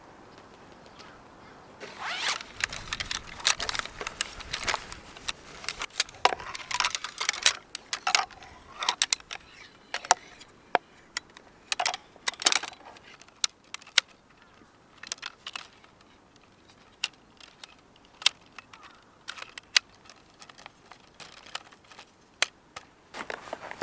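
Small hard objects being handled: a run of sharp clicks and clinks with some rustling, busiest for the first several seconds and thinning out to scattered single clicks later.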